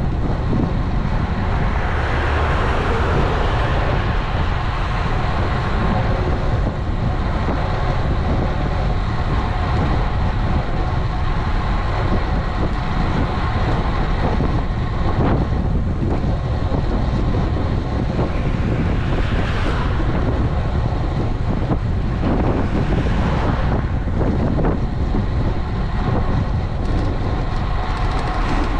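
Wind rushing over an action camera's microphone on a moving road bike, with steady road noise underneath. A few brief swells, likely passing traffic, about halfway through and later.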